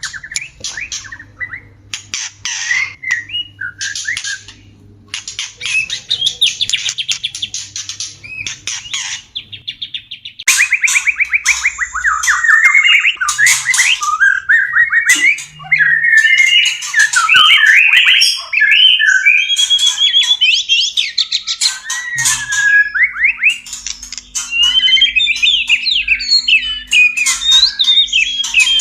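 White-rumped shamas giving breeding-season mating calls. Broken, harsh chattering phrases come first, then about ten seconds in a louder, almost unbroken stream of rapid trills and gliding whistles.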